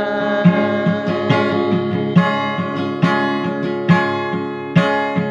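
Song accompaniment: acoustic guitar strummed in a steady rhythm, with an accented stroke a little under once a second, between sung lines.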